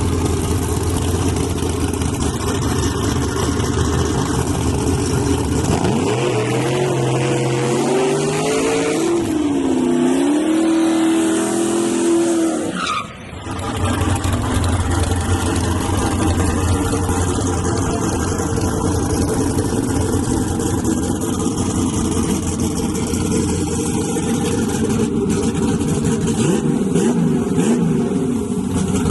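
Drag-racing S10 pickup trucks with swapped V8 engines running loud at full throttle. Midway, one engine's pitch climbs, dips once, holds, then cuts off sharply about thirteen seconds in, after which the loud engine noise picks up again.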